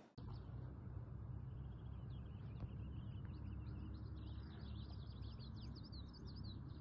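Small birds chirping and singing, many short high notes overlapping in a dense chorus, over a steady low rumble.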